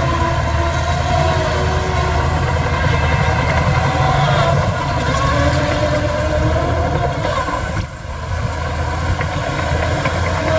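Diesel engines of heavy earthmoving machinery running steadily under load: a continuous low rumble with a whine that wavers in pitch, easing briefly about eight seconds in.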